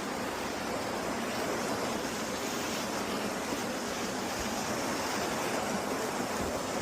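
Steady rushing of running water, an even noise with no breaks or changes.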